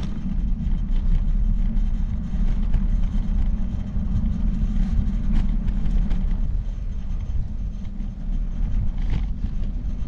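Wind buffeting the microphone on a bicycle ride: a loud, uneven low rumble.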